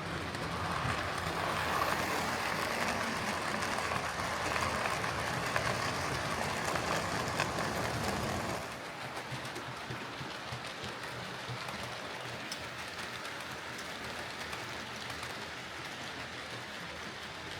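Hornby OO gauge Rebuilt Merchant Navy model locomotive running on the track after repair: a steady whirr and rumble of motor and wheels on the rails. It is louder for the first half and drops abruptly about halfway through.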